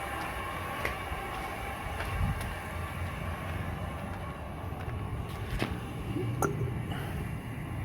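Water rushing steadily out of a water heater tank through its open drain valve as the tank is flushed of rust and sediment: a low, steady rumble with a few faint clicks.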